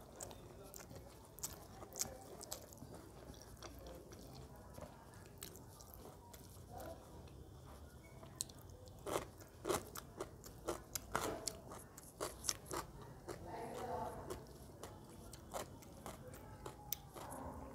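Close-up eating sounds: a person chewing mouthfuls of rice mixed with taro-stem curry, with many short, sharp mouth clicks and smacks, thickest around the middle.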